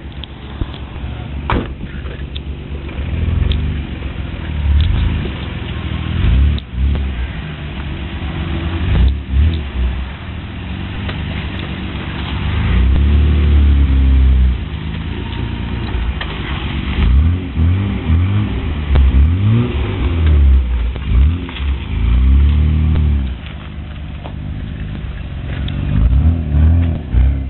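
Nissan Skyline R34 GT-R M-Spec Nür's RB26DETT 2.6-litre twin-turbo straight-six being revved again and again, its pitch climbing and dropping with each rev. The longest and loudest revs come in the middle and near the end.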